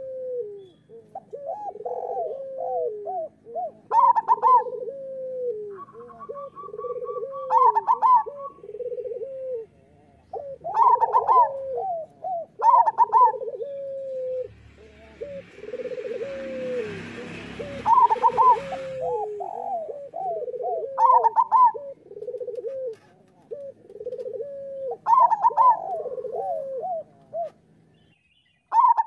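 Zebra doves (perkutut) cooing their repeated rhythmic song, with phrases at a lower and a higher pitch overlapping. A rushing hiss passes under the calls for a few seconds in the middle.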